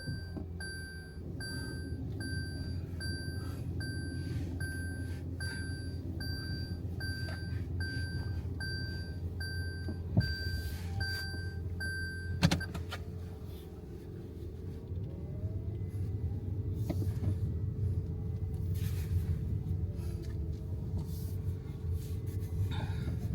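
Car running at idle with a steady low hum, while an electronic warning chime beeps regularly about once a second. The chime stops with a knock about twelve seconds in.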